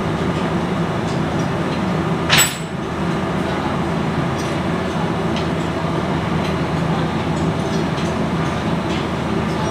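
Steady mechanical drone of running machinery, with one sharp metallic clink about two and a half seconds in and a few faint taps.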